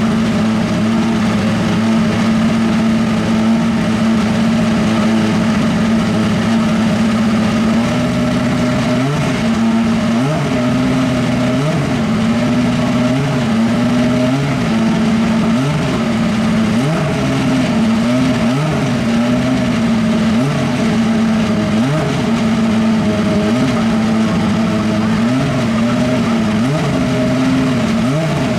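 Honda 2.0-litre turbocharged four-cylinder engine of a Super Formula race car running at a steady fast idle while warming up; from about eight seconds in it is given short throttle blips, roughly one a second, each a quick rise and fall in pitch.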